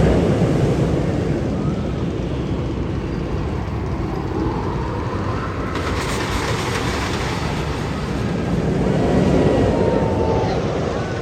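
Magnum XL 200 roller coaster train rumbling along its steel track, swelling near the start and again near the end, with a hiss that comes in suddenly about halfway.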